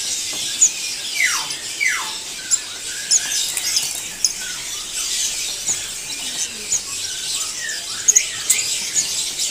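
Many caged songbirds chirping and squeaking at once in a busy chatter, with two quick downward-sliding whistles about a second and two seconds in.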